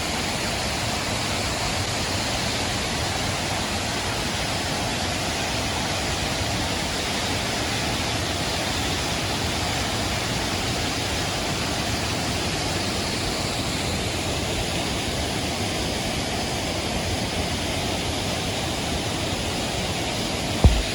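Waterfall, a steady rush of falling water. One sharp knock sounds near the end.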